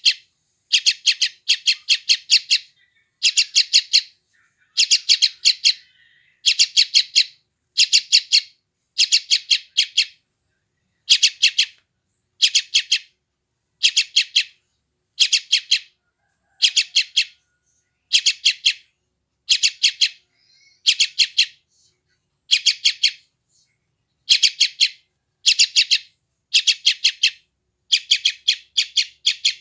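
Young yellow-vented bulbul (trucukan) giving hungry begging calls. The calls come as short bursts of rapid high chattering notes, about one burst a second, over and over.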